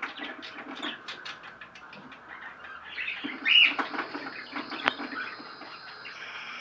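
Small cage birds chirping with quick short calls and wing flutters, one louder call about three and a half seconds in, and a sharp click near five seconds.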